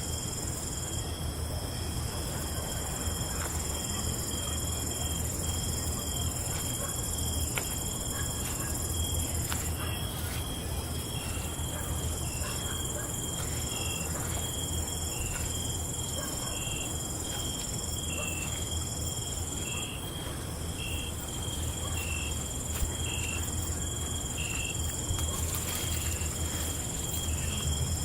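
Night insects, crickets among them, singing in several steady high trills. From about ten seconds in, one of them adds a short chirp repeated a little faster than once a second. A steady low hum runs underneath.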